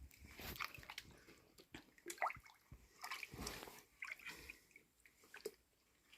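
Faint, scattered splashes and squelches of hands groping through mud and shallow water for fish.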